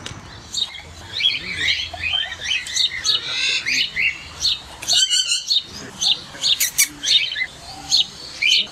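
Birds chirping and calling, several overlapping high chirps, with a quick trill midway and chirps repeating about twice a second near the end.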